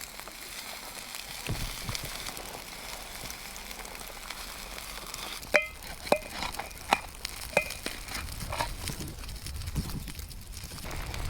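Food sizzling steadily on a small grill, with a run of sharp, ringing metal clinks about halfway through as a metal utensil knocks against the cookware.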